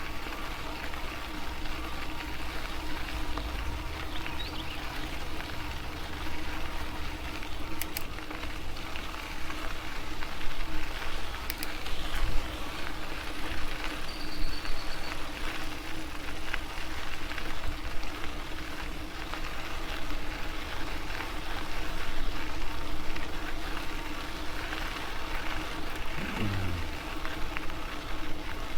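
Electric bike being ridden along a trail: a steady hum runs under even tyre and wind noise, with a few faint ticks.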